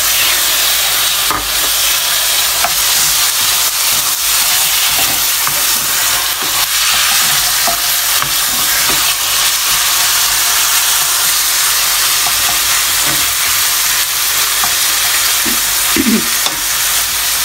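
Raw chicken pieces, just tipped into hot oil with sautéed onion in a stainless steel pan, sizzling loudly and steadily as they fry. A spoon stirs and scrapes the pan now and then.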